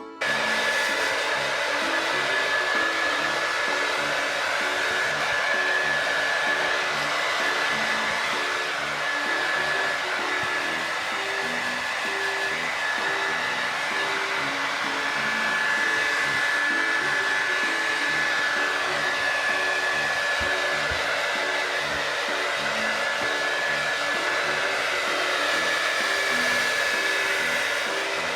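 Hair dryer blowing steadily with a thin high whine in its rush of air, switched on abruptly at the start. Soft background music with a simple melody plays underneath.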